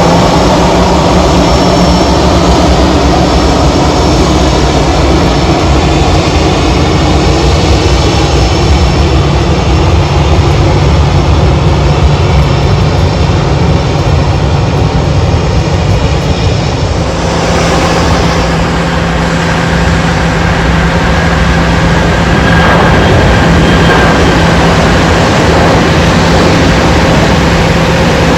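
Jet aircraft engines running: a loud, steady noise that changes in tone about 17 seconds in, where a steady hum comes in.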